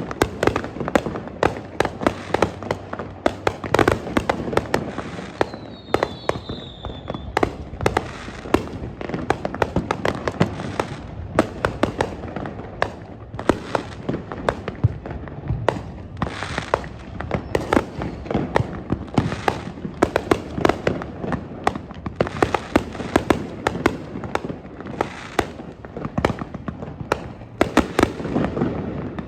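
Fireworks display going off continuously: a dense run of sharp bangs and crackling reports in quick succession, with a brief falling whistle about six seconds in.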